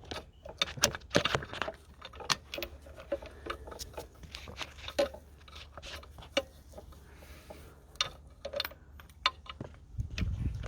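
Scattered metallic clicks and light taps of small parts and hand tools being handled while an injector clamp is fitted on a diesel engine, with a brief low rumble near the end.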